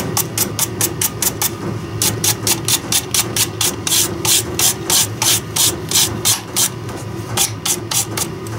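Rapid back-and-forth scraping strokes, about four a second, as metal is scrubbed clean for soldering, with brief pauses about one and a half seconds in and near the end. A steady low hum runs underneath.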